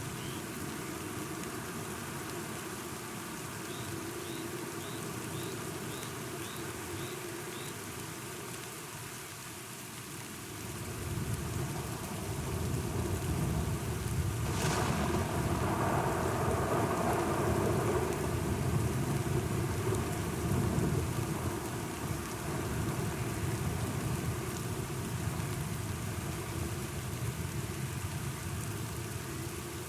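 Steady rain with a thunderstorm: low thunder starts rolling in partway through, a sharp thunderclap cracks near the middle, and the rumbling then slowly fades.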